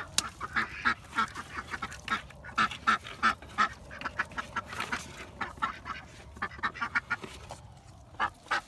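A flock of ducks quacking in a quick run of short calls, thinning out briefly near the end. A single sharp click sounds just after the start.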